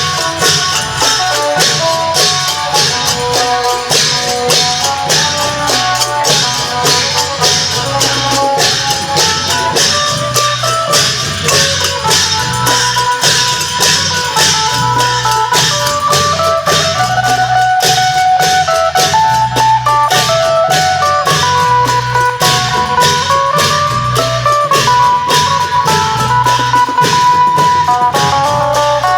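Isan long-drum procession music: a phin (Isan lute) plays a plucked, shifting melody over a steady beat of long drums and small cymbals.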